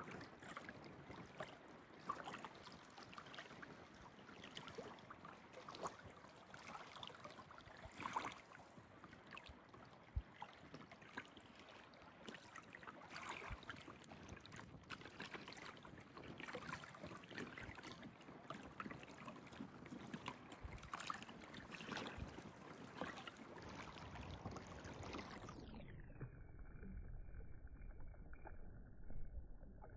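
Lake water lapping and splashing gently, with small irregular splashes, faint throughout. Near the end the sound turns duller as its high end drops away.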